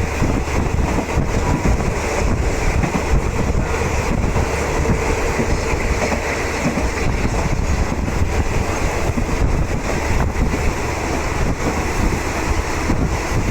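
Steady rumble and rush of a moving passenger train heard from inside a third-class coach, with wheels running on the rails.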